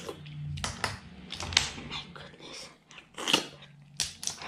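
Close-up chewing of curried butter clams: irregular wet mouth clicks and smacks, the sharpest about one and a half seconds in and just past three seconds.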